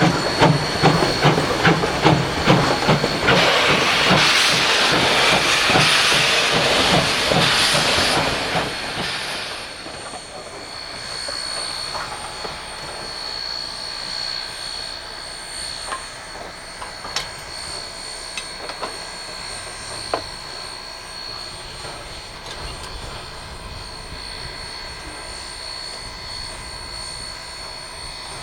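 Narrow-gauge train in motion, with a fast, even rumble of wheels and cars and a hiss of steam. About nine seconds in it drops to a quieter steady hiss carrying a high, steady whine, broken by a few sharp clanks.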